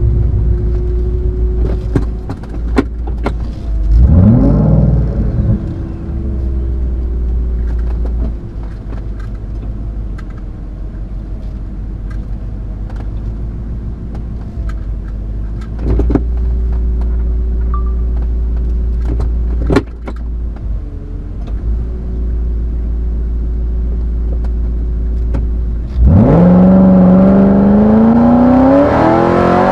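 Whipple-supercharged Ford GT V8 idling steadily, with a quick rev about four seconds in and a few sharp clicks. Near the end the engine goes to full throttle at the launch, its pitch climbing steeply as the car accelerates.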